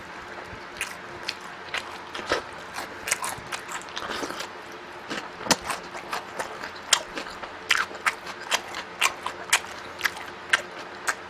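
Close-miked eating: a person chewing and biting food, with a run of sharp crunchy clicks about one to two a second, coming more often in the second half.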